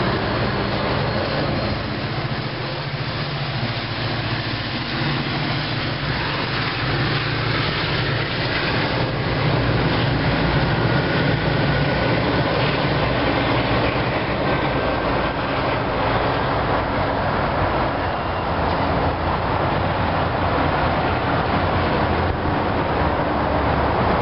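Tri-Rail passenger train with an EMD F40PH-series diesel-electric locomotive passing and departing: a steady diesel engine drone with rail and wheel noise.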